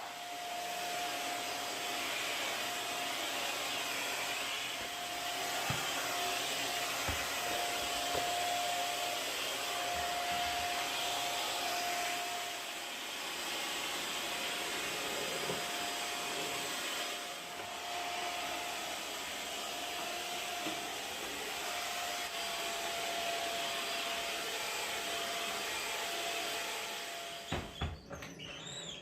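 Vacuum cleaner running steadily with a constant motor whine, switched off near the end with a few knocks.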